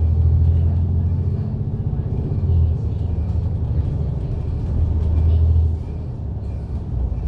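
Diesel engine of a MAN A95 double-deck bus heard from inside the cabin while under way: a loud, low drone that swells and eases, then drops in level about six seconds in.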